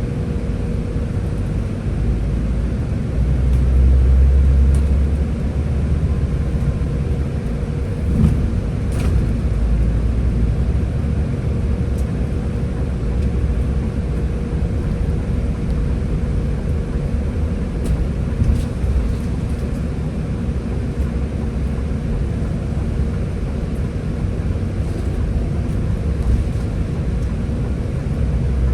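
Scania Higer A30 city bus under way: a steady low engine and road rumble with a constant hum, swelling a little a few seconds in, and a few light rattles and clicks.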